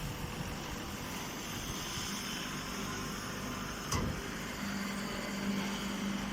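Baling machinery running steadily, with a single knock about four seconds in and a steady hum joining shortly after.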